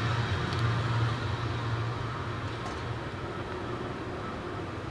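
Rumble of a train that has just gone over the crossing, receding. A low hum dies away in the first couple of seconds, leaving a fading, even wash of noise.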